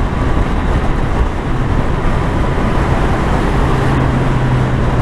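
Triumph Street Triple's inline three-cylinder engine running at a steady road speed under a steady rush of wind and road noise. A steady low engine hum comes up clearer about three and a half seconds in.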